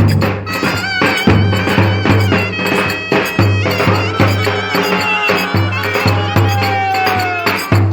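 Live Turkish folk dance music at a wedding: a wind instrument plays a bending, ornamented melody over held low notes and a steady drum beat.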